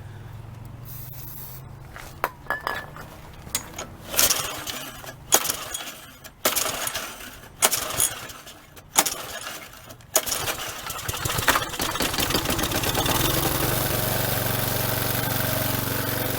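Troy-Bilt string trimmer's small engine being pull-started again and again, about one pull a second. It then catches and runs steadily through the last few seconds.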